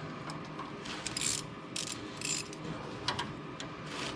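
Hose clamp being tightened over a patch on an exhaust pipe: a run of short rasping, ratcheting clicks at an irregular pace as the clamp's screw is turned.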